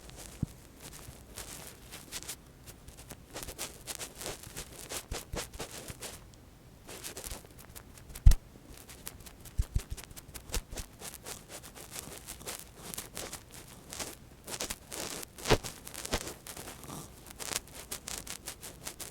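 Close-miked ASMR handling sounds: soft scratching and rustling with irregular small clicks, and one sharper click about eight seconds in.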